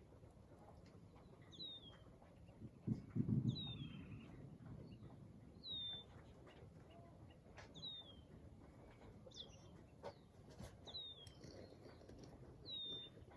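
A bird repeating a short, high, downward-slurred call about every two seconds. A brief low rumble comes about three seconds in.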